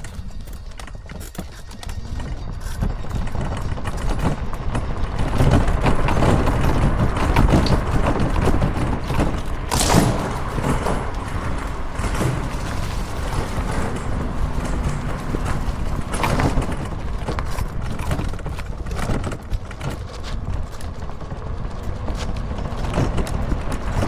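Riding noise from a small two-wheeled vehicle: wind rumbling over the microphone, with irregular rattling clicks and knocks from rolling over the pavement and a sharper knock about ten seconds in.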